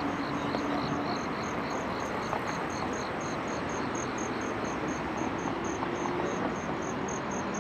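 Crickets chirping in a steady rhythm, about four short chirps a second, with a second, lower-pitched chirper fading out partway through, over a steady background hiss of city noise.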